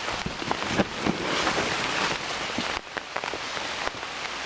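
Heavy rain falling: a dense hiss with many individual drops ticking close by. The hiss swells through the first half and eases a little under three seconds in.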